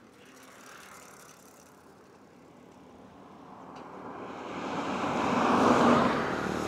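A road vehicle passing close by: a rushing noise that grows louder over a few seconds, peaks near the end, then begins to fade.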